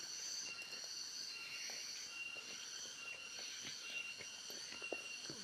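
A steady, high-pitched insect chorus with a tone that pulses on and off, over faint scattered ticks.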